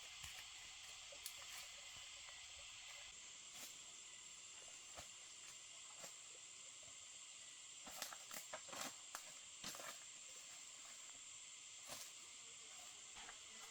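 Faint forest background: a steady high-pitched hiss, like an insect chorus, with a cluster of soft clicks and crackles about eight to ten seconds in.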